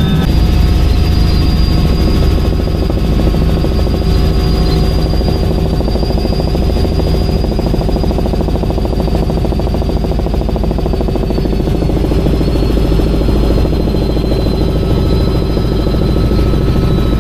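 Helicopter running steadily: a heavy low rumble with a fast rotor beat and a steady high turbine whine that drifts slightly lower in pitch about two-thirds of the way through.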